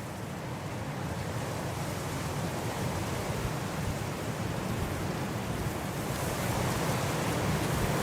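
Blizzard wind blowing as a steady rush of noise that slowly builds in strength, turning brighter and hissier near the end.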